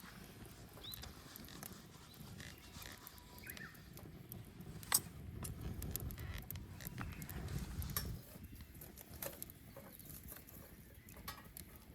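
Bonfire crackling: burning wood popping in sharp, irregular snaps, the loudest about five seconds in, over a low steady rumble of the flames.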